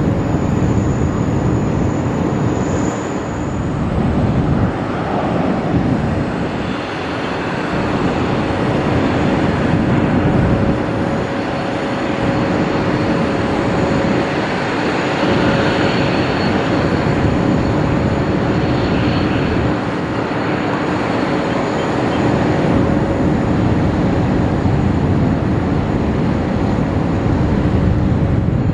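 The General Electric GE9X turbofan engines of a Boeing 777X in flight, giving a loud, steady rushing noise with a few faint steady whining tones.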